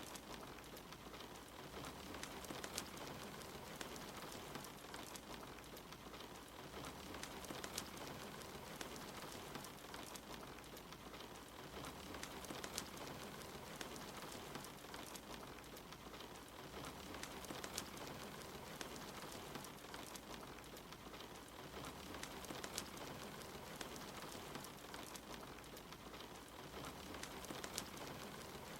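Steady rain with a wood fire crackling: an even hiss of rainfall dotted with scattered sharp pops and snaps.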